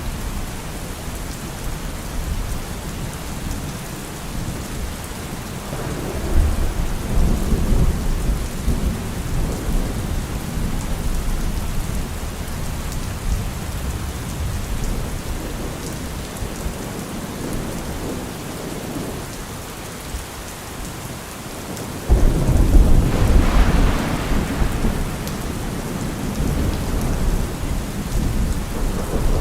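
Steady rain with two rolls of thunder. The first rumbles in about six seconds in; the second, louder one breaks suddenly about 22 seconds in and rumbles for a few seconds.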